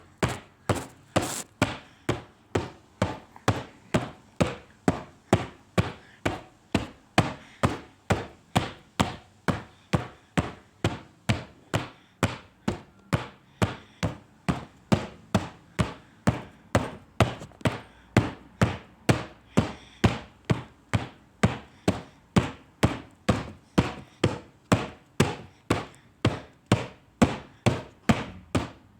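A person knocking steadily on something hard, about two evenly spaced strikes a second.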